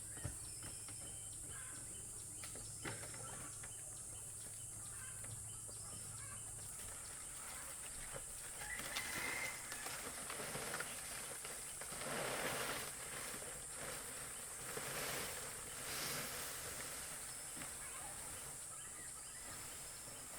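Rural outdoor ambience: a steady high insect drone with a few faint bird chirps. From about eight seconds in come several bursts of rustling and handling noise.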